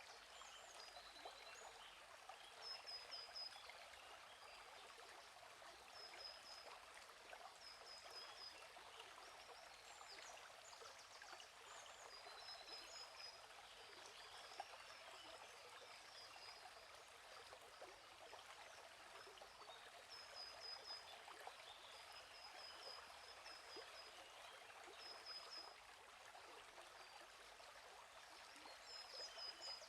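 Quiet, steady flow of a gentle stream, with a songbird giving short high, quick chirp phrases every few seconds.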